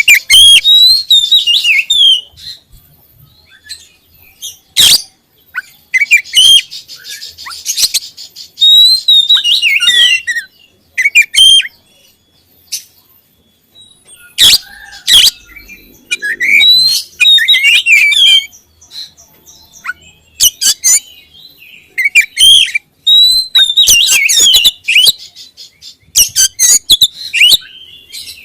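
Oriental magpie-robin (kacer) singing loudly in repeated bursts of quick, varied whistles and sharp chips, with short pauses between phrases.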